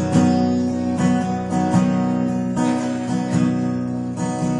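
Acoustic guitar strummed in slow, ringing chords, a fresh strum about every three-quarters of a second, with no singing over it.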